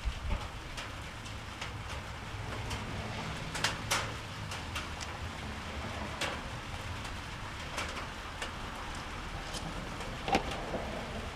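Rain falling, with scattered sharp clicks over a steady hiss and a low, even rumble; a couple of louder knocks stand out, one a few seconds in and one near the end.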